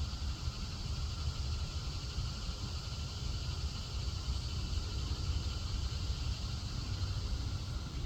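Outdoor ambience: insects, such as crickets, keep up a constant high drone over a steady low rumble.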